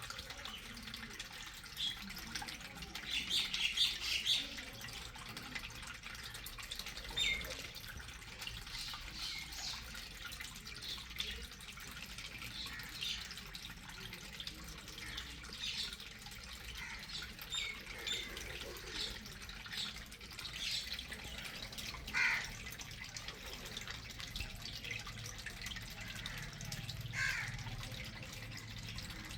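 Water splashing and dripping from popped water balloons, in a series of short scattered splashes, with birds chirping now and then.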